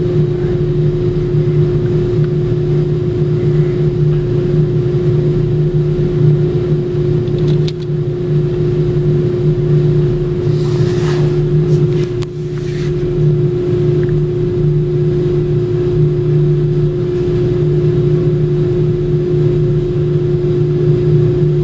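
A steady mechanical drone with a constant hum. A few short knocks and a brief hiss come through it about eight seconds in and again between eleven and thirteen seconds in.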